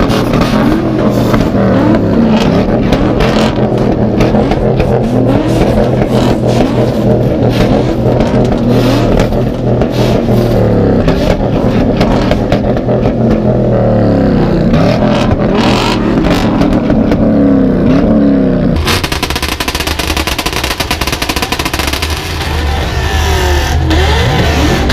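Loud car engines revved again and again, each rev climbing in pitch and falling back, over a constant low rumble. About 19 seconds in the sound changes abruptly to a different, lower-pitched engine noise.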